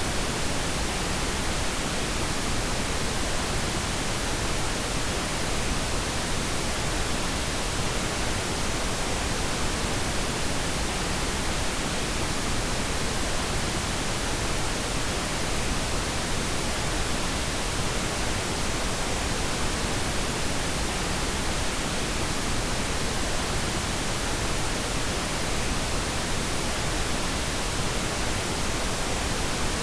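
Pink noise: a steady, even hiss across all pitches, with more weight in the low end, unchanging throughout.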